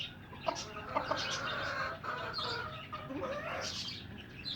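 Domestic hens clucking, with one long drawn-out call from about a second in until near the end, and small birds chirping high in the background.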